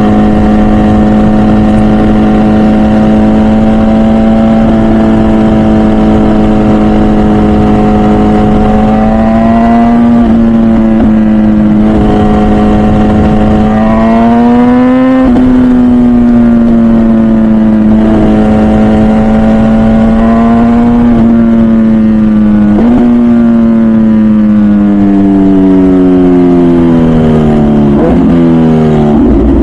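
MV Agusta Brutale 1000RR's 998cc inline-four, through a full titanium Arrow exhaust, heard on board while riding. It holds steady revs, climbs a little twice, then winds down as the bike slows, with two quick rev blips from downshifts near the end, over wind rush.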